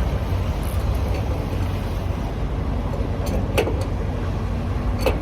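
Steady low rumble of a semi truck's engine idling, with a few sharp metallic clicks about three and a half seconds in and again near the end.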